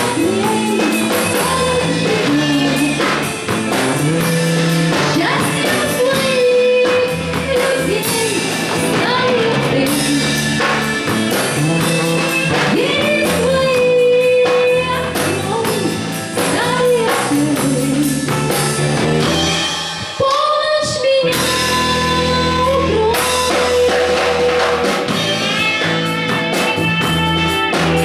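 Live band playing a song: a singer's voice over guitar and drum kit. The bass and drums drop out briefly about twenty seconds in, then come back.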